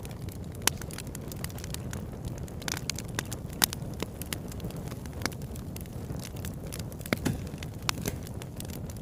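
Small campfire burning with a steady low rumble and irregular sharp crackles and pops of burning wood.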